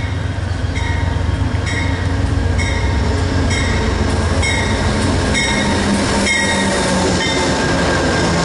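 Amtrak passenger train pulling into a station behind a diesel locomotive and braking to a stop, with a steady low rumble and a ringing that repeats about once a second as the locomotive and cars pass close by.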